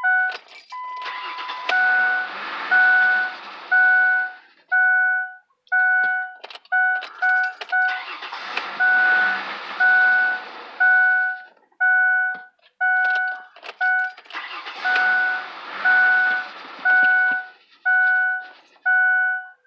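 2004 Mercury Mountaineer's starter cranking the engine in three bouts of a few seconds each, with the accelerator floored, and the engine never catches: it cranks but will not start after a fuel pump change. A two-note dash warning chime rings about twice a second throughout and is the loudest sound.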